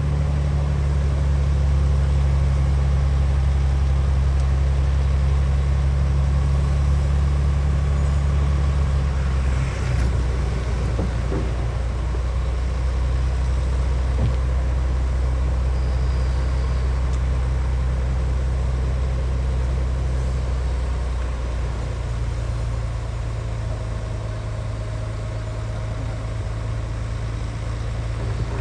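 Heavy diesel engine of earthmoving machinery running steadily with a deep low drone. Its pitch and load change about ten seconds in, together with a brief burst of noise, and change again later.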